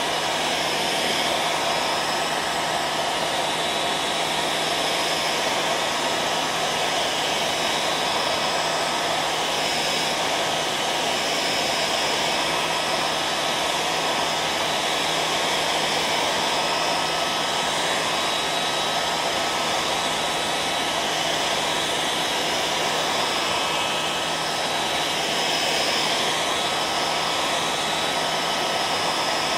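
Hair dryer running steadily: an even rush of blown air with a steady motor hum and whine, unchanging throughout.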